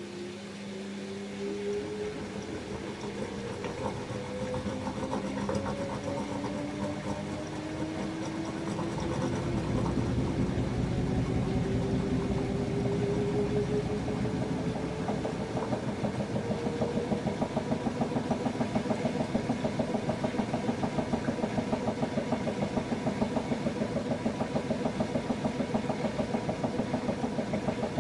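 LG F10A8HDS5 front-loading washing machine spinning its drum up to speed: the direct-drive motor's whine rises steadily in pitch for about the first half, then holds at a steady speed with an even rhythmic pulsing of the drum's rotation.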